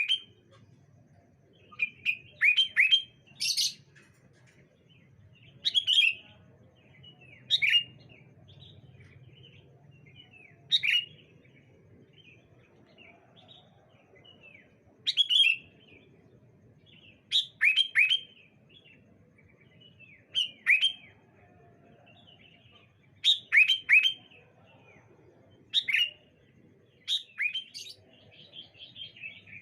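Sooty-headed bulbuls (kutilang) calling back and forth: short, bright phrases of a few quick falling notes, coming in bursts every few seconds.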